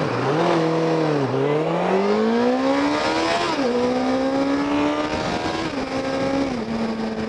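2006 Suzuki GSX750F's inline-four engine running through a Delkevic 450mm stainless steel slip-on exhaust, the throttle worked up and down: revs climb steadily for a couple of seconds, fall back about halfway through, then drop again near the end to a steady lower speed.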